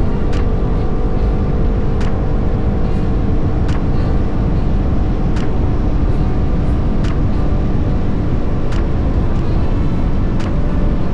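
Honda CBR500R motorcycle cruising at a steady speed: heavy wind noise on the microphone over a steady engine note, with a sharp click about every second and a half to two seconds.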